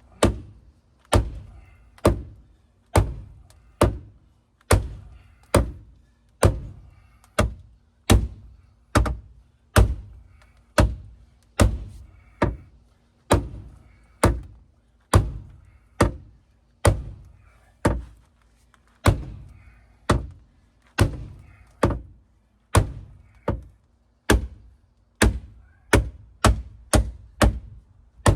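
A sledgehammer striking the crushed sheet-metal rocker panel of a Dodge Dakota pickup, about thirty dull, heavy thunks at roughly one a second, coming a little quicker near the end. The blows are beating the panel back down after it was pushed up by a forklift.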